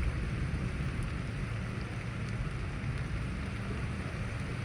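Steady rain in a thunderstorm: an even hiss with a constant low rumble underneath, and no claps or booms.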